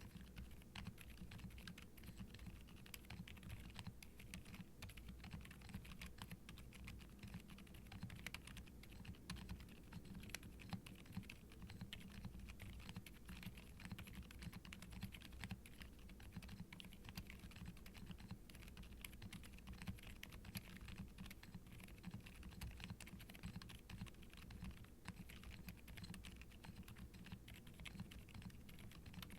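Continuous fast typing on a Qwertykeys Neo65 Cu mechanical keyboard fitted with WEKT Lucy V5 silent linear switches on an ABS plate with ABS keycaps: very quiet, soft muted keystrokes with firm bottoming out.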